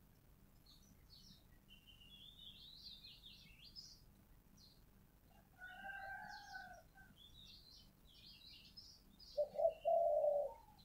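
Spotted dove cooing: a short, softer phrase about six seconds in and a louder phrase of low notes near the end, over steady high chirping of small birds.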